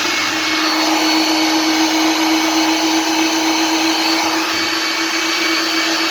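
Philips 1600 W electric meat grinder's motor running steadily with a constant whirring hum, unloaded, after its worn drive coupling was replaced with a new plastic one.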